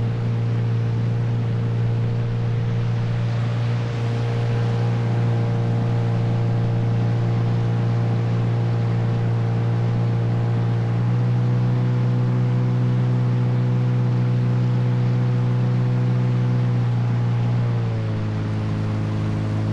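Motor boat's outboard engine running at a steady speed. Its pitch steps up slightly about halfway through, then drops near the end as the throttle is eased back.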